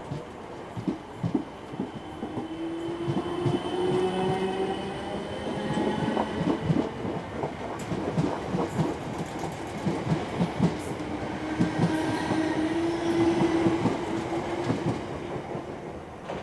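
A passenger train passing, its wheels clacking rapidly over rail joints and points, with a rising whine heard twice as it goes.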